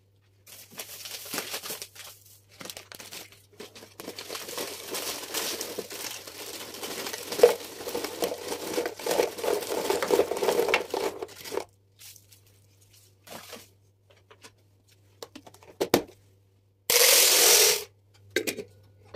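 Packaging crinkling and rustling as it is handled, for about eleven seconds. Then come a few light knocks and, near the end, a loud rush of noise lasting about a second.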